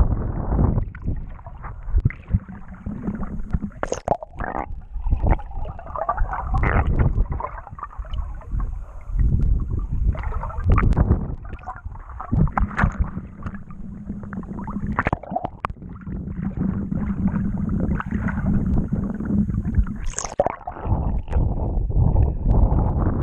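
Wind buffeting the microphone and water splashing and gurgling past a moving boat, with irregular thumps. A steady low hum comes and goes through it.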